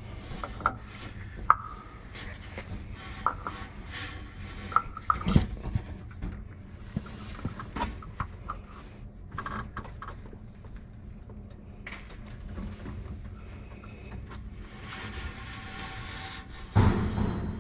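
Scattered small clicks, knocks and rubbing from handling a plastic sample jug at an aircraft engine's quick drain plug while hot oil is drained into it, with a louder rustle near the end.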